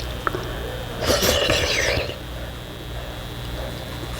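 Close-up eating sounds from a bowl of spicy instant ramyun: a couple of small clicks, then a loud slurp of noodles lasting about a second, starting about a second in.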